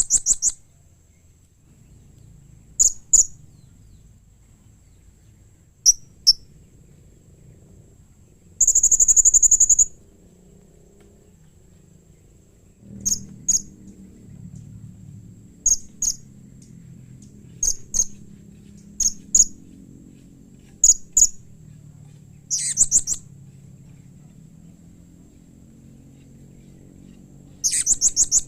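Blue-crowned hanging parrot (serindit) calling: short, sharp, high-pitched chirps, singly or in quick pairs every few seconds, with one longer trill about nine seconds in and a fast run of chirps near the end.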